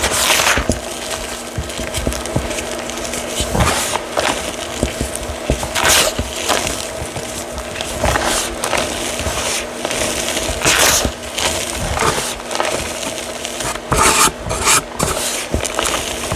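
Gritty reformed chalk being crushed and crumbled, a series of crackly crunches every second or two, over a steady background hum.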